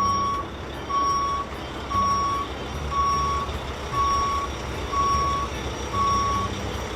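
Truck reversing alarm beeping seven times, about once a second, over a low engine rumble.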